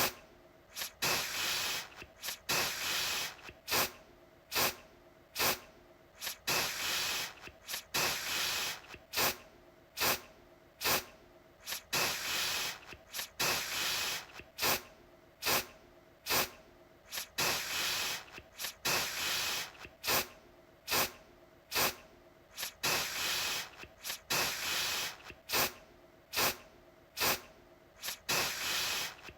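Aerosol deodorant can spraying in repeated short bursts, about one a second: some quick puffs and some longer hissing sprays of up to a second.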